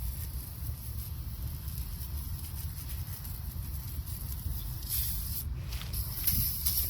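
Aerosol can of engine degreaser spraying, its hiss coming in short bursts near the end over a low steady rumble.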